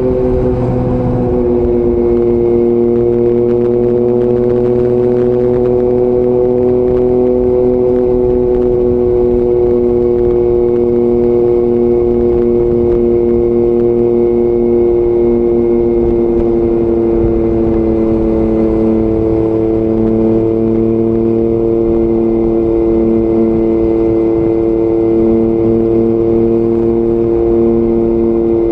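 Yamaha MT-09 inline three-cylinder engine with an Akrapovic exhaust, running at a steady cruise under way. Its pitch eases slightly lower partway through.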